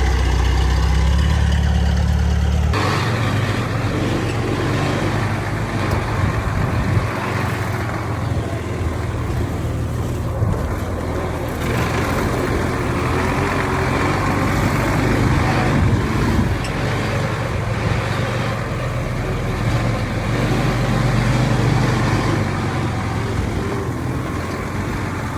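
Diesel engines of heavy earthmoving machinery running. A steady low engine note changes abruptly about three seconds in to a rougher, noisier running sound that carries on.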